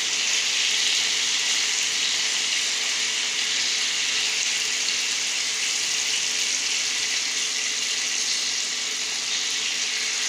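Halved brinjals frying in hot oil on a tawa: a steady sizzle.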